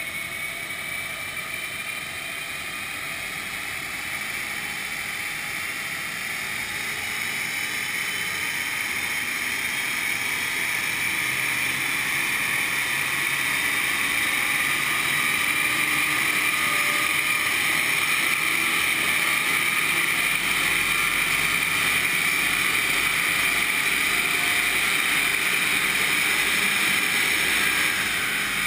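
BMW 330xd's turbodiesel engine pulling under load on an all-wheel-drive dyno, a long, slow run with the engine note and a whine rising gradually in pitch and getting louder over the first fifteen seconds or so, then holding near full load.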